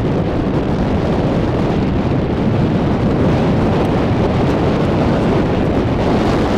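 Strong wind buffeting the microphone in a steady, loud rumble, with surf likely mixed underneath.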